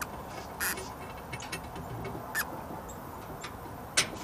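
A few sharp, irregular metal clicks and taps as a replacement bolt is worked into the landing gear drive of a fifth-wheel trailer, the loudest near the end.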